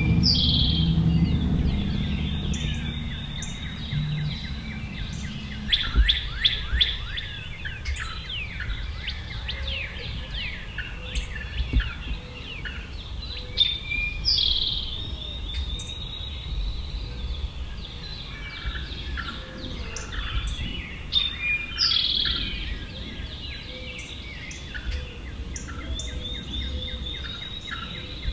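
Songbirds singing in a morning chorus of many chirps and trills. One bird repeats a short song, a sharp falling note followed by a trill, every several seconds. A low rumble sits under the first few seconds.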